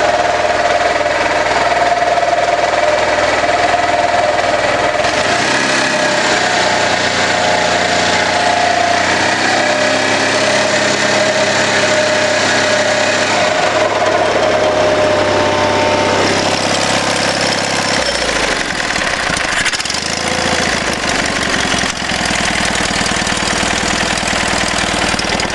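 Gravely garden tractor engine running steadily, its pitch shifting a few times. It won't rev up from its low speed, but it runs.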